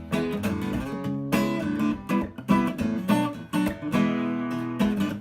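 Acoustic guitar strumming chords in a song's instrumental break between verses.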